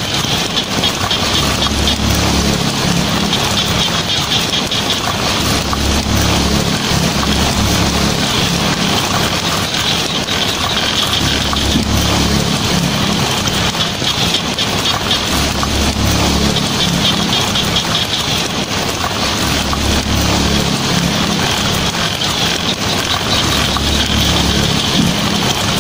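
Heavy rain drumming steadily on a tin roof, with a low rumble underneath that swells and fades every few seconds.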